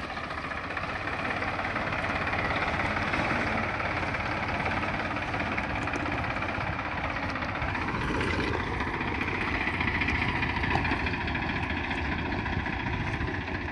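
Deutz-Fahr tractor's diesel engine running steadily, with a brief rise in pitch about eight seconds in.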